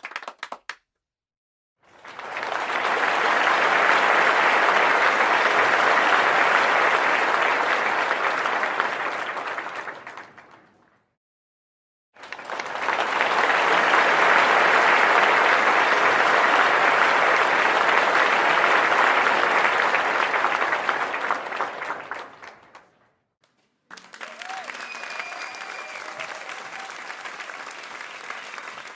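Crowd applause, two separate takes of about ten seconds each, each swelling in, holding steady and fading out, with short silences between. From about three-quarters of the way through, a quieter, steady crowd sound follows.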